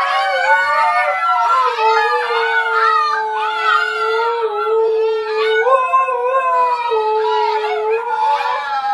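Dogs howling in long, wavering howls, several pitches overlapping at once; the howling cuts off suddenly near the end.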